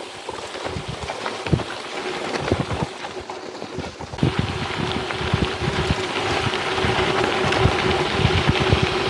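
Gravel bike riding over a wet dirt and gravel trail: wind on the microphone and tyres on the wet surface, with frequent short knocks and rattles from bumps. It grows louder about four seconds in, as the speed picks up.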